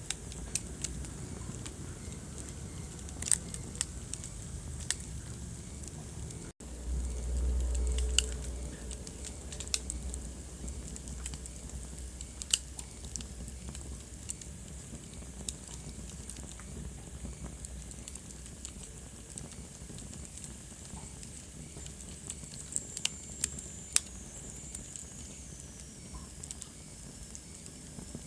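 Wood fire in a fireplace crackling, with irregular sharp pops over a steady hiss of flames. About a quarter of the way in the sound drops out for an instant, then a low rumble of the flames swells for a few seconds; near the end a faint high whistle slides down in pitch.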